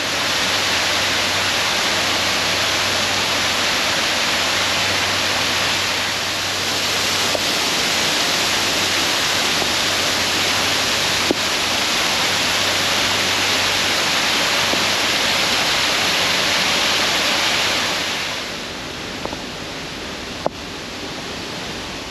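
Steady rush of water falling from an artificial garden waterfall into a pond; it gets quieter about 18 seconds in.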